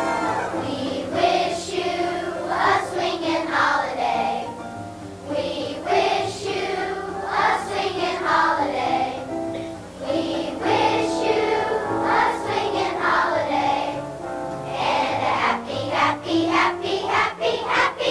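Elementary school children's choir singing a song.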